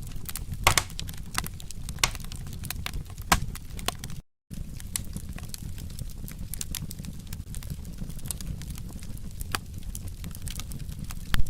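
Wood fire crackling, with irregular sharp pops over a steady low rumble. The sound cuts out completely for a fraction of a second about four seconds in.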